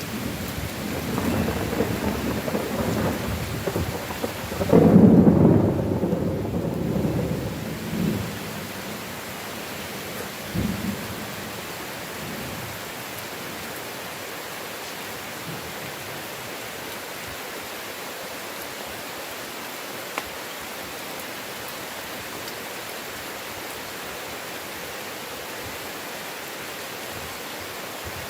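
Heavy rain falling steadily while thunder rolls, the loudest peal about five seconds in and dying away by about eight seconds, with one short last rumble near eleven seconds; after that only the even hiss of the rain.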